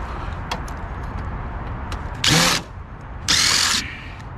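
Power drill running in two short bursts, each about half a second long, with a high whine, driving out screws from a printer's sheet-metal frame. Small clicks and taps come between the bursts.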